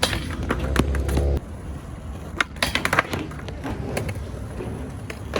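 Skateboard wheels rolling on concrete, a low rumble that is loudest for the first second and a half, with a series of sharp clacks from the board and trucks striking the ground.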